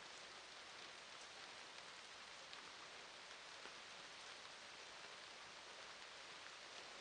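Faint, steady rainfall: an even hiss with scattered light ticks of drops.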